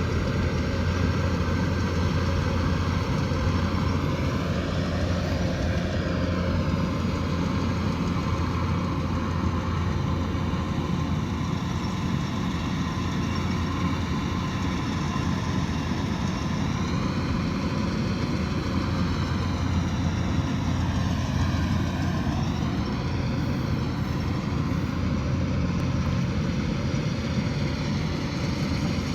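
Kubota DC108X combine harvester running at work: a continuous engine and machinery drone. Its tone sweeps up and down a few times.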